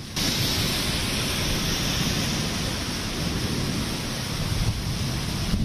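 Steady rain falling, an even hiss with a low rumble underneath, starting abruptly just after the beginning.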